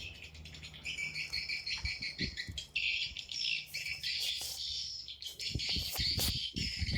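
Swiftlet calls: a dense, rapid twittering chatter of many birds, the kind of call recording played to lure swiftlets into a nest house. A few low thumps come in near the end.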